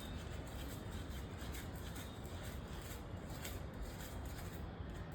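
Faint, irregular scraping and rustling of a spoon stirring baking soda mixed with turmeric and spices in a container, over a low background hum.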